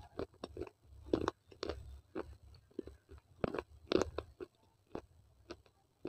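Close-miked chewing of baked clay: irregular crisp crunches every few tenths of a second, loudest about a second in and again around three and a half to four seconds, growing fainter near the end.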